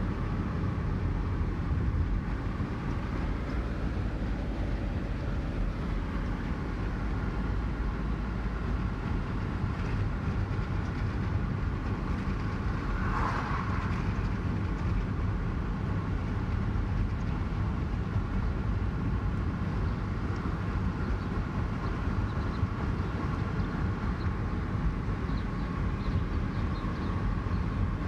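Steady road and engine noise of a car driving, heard from inside the cabin, with a brief higher-pitched swell about halfway through.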